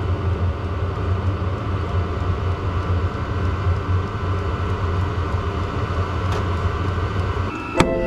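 A steady, low mechanical rumble. Music starts near the end, with a sharp click.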